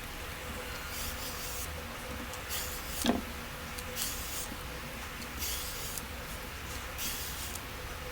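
A cucumber being peeled: about five short scraping strokes, roughly one every second and a half, with a single knock about three seconds in.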